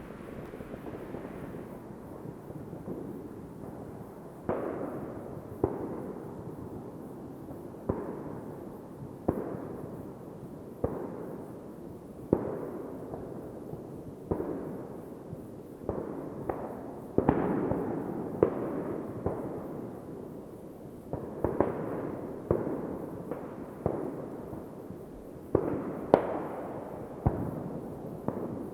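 Fireworks going off: sharp bangs at irregular intervals, about one every second or two, each trailing off in a rolling echo, over a steady background rumble of more distant bangs.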